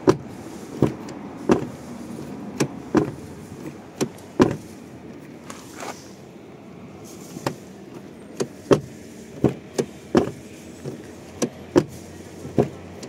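Haval M6 side door being shut again and again: a series of sharp, irregular thuds and latch clunks. The latch is being tested after a striker adjustment, and the door catches only every other time.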